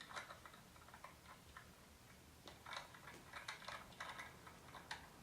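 Near silence with faint, irregular clicking in two clusters: a handful of clicks in the first second and a half, then a denser run from about two and a half seconds in to near the end.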